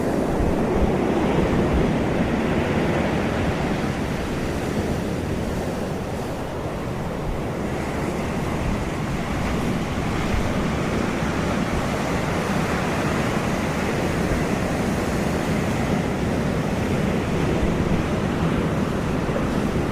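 Ocean surf washing steadily onto a beach, a continuous rush of breaking waves with a slight lull about six seconds in.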